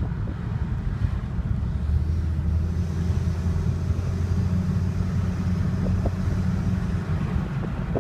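Saab car running with a constant low rumble; a steady low hum comes in about two seconds in and dies away a second before the end.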